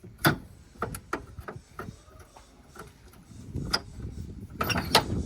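Irregular sharp metallic clicks and knocks from parts of a truck being handled, with a low rumble building about three and a half seconds in and a cluster of louder knocks near the end.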